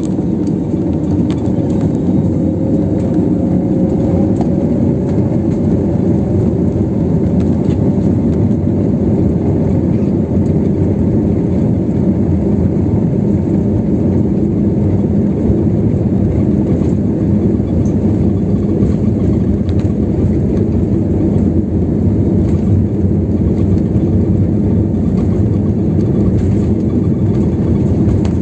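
Passenger jet engine and airflow noise heard inside the cabin: a loud, steady rumble that swells slightly at first and then holds level.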